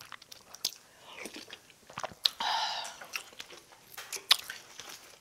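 Close-miked chewing of a person eating home-cooked Korean food, with wet mouth clicks and smacks, and a short pitched mouth sound about halfway through.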